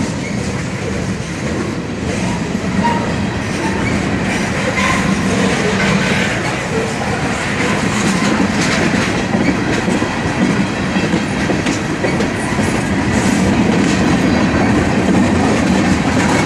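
Freight train of tank cars rolling past close by: a steady, loud rumble of steel wheels on the rails, with a continual run of clacks as the wheels cross rail joints.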